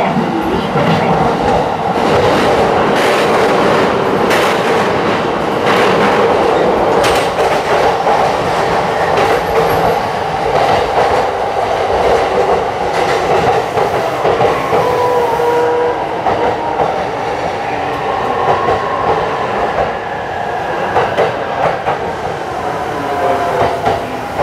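Cabin running noise of a JR East E531 series electric commuter train: a steady rumble of wheels on rail with clickety-clack over rail joints in the first half, then a few faint steady tones as the train slows into a station.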